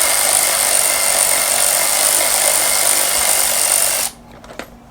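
Handheld power tool with an 8mm socket running steadily, backing out an engine cover bolt. It cuts off suddenly about four seconds in.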